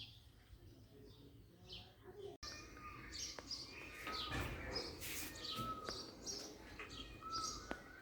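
Many small birds chirping, with short, high calls that crowd together after a brief cut-out about two and a half seconds in.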